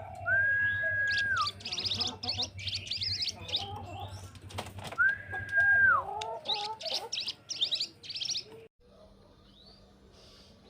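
Birdsong: a long, level whistled note that drops away at its end, followed by a rush of fast, high trilling chatter, the whole phrase given twice. The song cuts off suddenly near the end.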